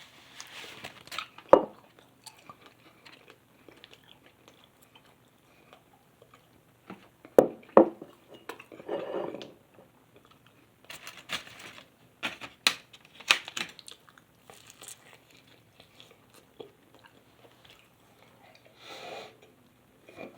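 A person chewing and biting food in irregular bouts, with several sharp clicks and knocks in between, loudest about a second and a half in and again around eight and thirteen seconds.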